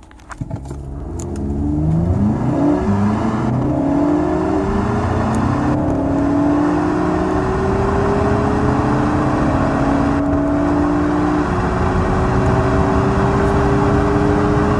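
Car engine accelerating hard from a standstill at full throttle, heard from inside the car. The pitch climbs steadily and dips briefly at each upshift, three times.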